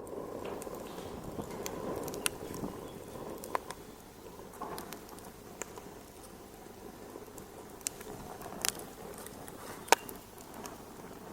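Wood fire in a fireplace crackling: scattered sharp pops and snaps over a steady rushing of the flames, with the sharpest pop near the end.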